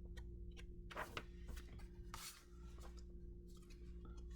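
Soft rustling and a few light taps of paper pages being handled and turned, over a low steady electrical hum.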